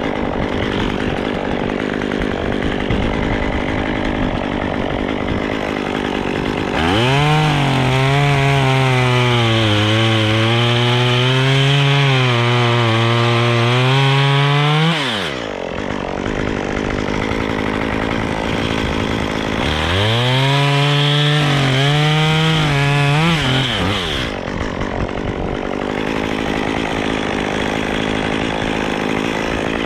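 Gas chainsaw revved to full throttle and cutting wood: one long cut about seven seconds in lasting some eight seconds, and a shorter one around twenty seconds in. The pitch sags and recovers under load, and the saw drops back to idle between cuts. Another rev starts at the very end.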